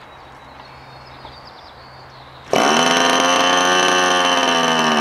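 Electric starter spinning the OS .46AX glow engine of an RC P-51D Mustang, switched on suddenly about two and a half seconds in and running at a steady whine without the engine catching. The engine, unrun for years, seems gummed up and not drawing fuel.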